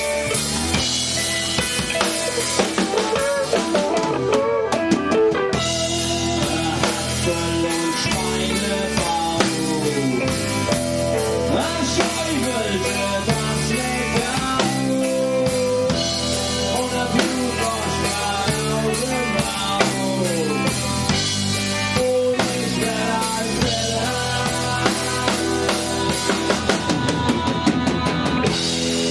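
Rock band playing live, an instrumental passage with a full drum kit keeping a steady beat under bass and a melodic line that bends up and down in pitch.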